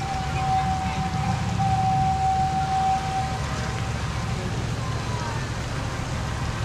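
Miniature railroad train running, with a steady low rumble and hiss. A long, steady, single high tone sounds over it for the first three seconds or so, broken once briefly, and a short falling tone follows near the end.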